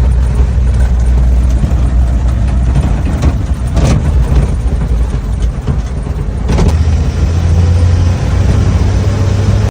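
1947 Dodge truck's flathead six-cylinder engine running as the truck is driven. The engine note sags in the middle and picks up again after about six and a half seconds, with a short clunk about four seconds in and another just before it picks up.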